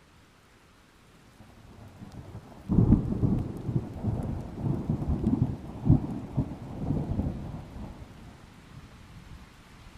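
Thunder: a low rumble builds, breaks into a sudden loud clap a little over a quarter of the way in, and rolls on in several peaks for about five seconds before fading. Light rain hisses underneath.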